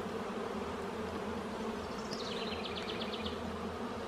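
Honeybees buzzing in a steady hum around an opened hive during a frame inspection. Near the middle, a brief run of about eight quick high ticks sounds over the buzz.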